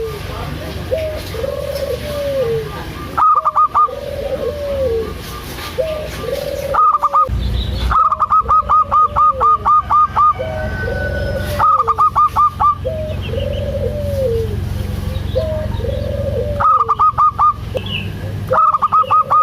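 Perkutut (zebra dove) cooing: a string of rolling coos at about one a second, broken every few seconds by a quick run of sharp, higher staccato notes.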